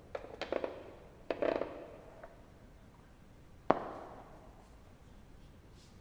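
Wood-burning fireplace crackling, with quick clusters of small pops early on and one sharp, louder pop a little past the middle.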